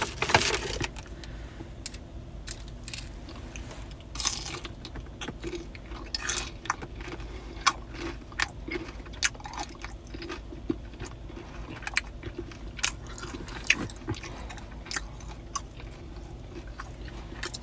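Close-up chewing of a crispy breaded fried cheese stick: irregular crunches and wet mouth clicks, scattered through the whole stretch.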